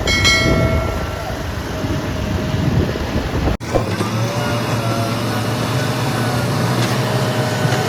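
Heavy diesel machinery engines running. The sound changes abruptly about three and a half seconds in to a steadier low engine hum.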